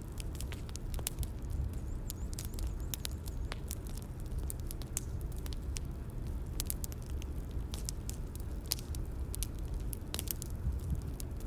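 Bonfire crackling: a low, steady rumble of burning with many irregular sharp pops and snaps from the wood.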